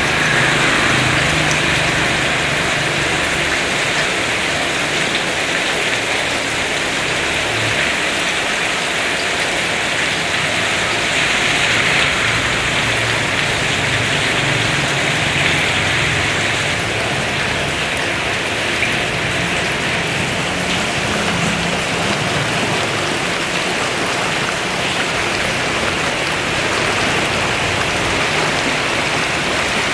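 Heavy rain pouring steadily, with a low rumble coming and going underneath.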